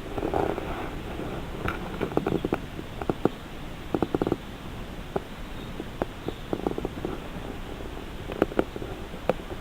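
Railway train rolling slowly, its wheels knocking in irregular clusters of clicks over the rail joints above a low rumble.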